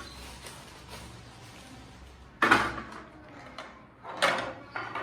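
Kitchen handling sounds: a sharp knock about two and a half seconds in that dies away, then a few smaller clatters near the end, as of containers, lids or a cupboard or drawer being handled.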